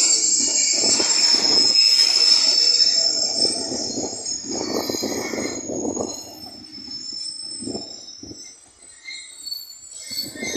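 Passenger train coaches rolling past along the platform. Their wheels squeal with a steady high screech over the rumble of the cars, and the squeal fades out about halfway through. The sound grows quieter towards the end, with a couple of short knocks from the wheels about eight seconds in.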